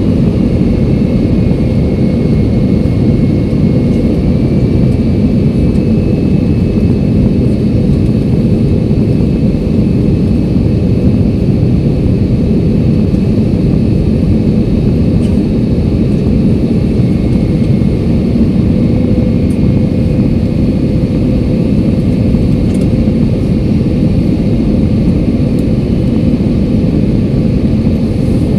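Steady cabin noise inside a jet airliner: a constant low rush of engine and airflow noise with a faint steady whine over it, unchanging throughout.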